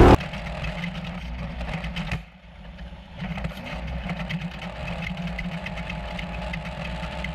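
Off-road race truck's engine idling steadily, with a brief drop in level about two seconds in.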